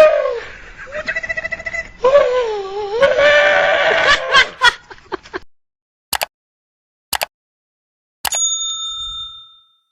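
An animal's drawn-out, wavering calls, several in a row, stopping about five seconds in. Then come three sharp clicks about a second apart and a bell-like ding that rings and fades.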